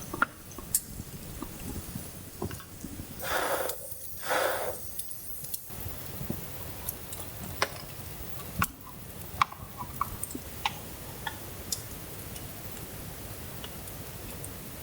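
Scattered light clicks and taps, with two brief rustling swishes about three and four seconds in.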